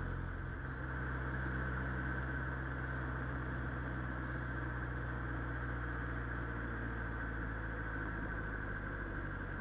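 A motor vehicle's engine running steadily: a low, even hum that holds the same pitch throughout.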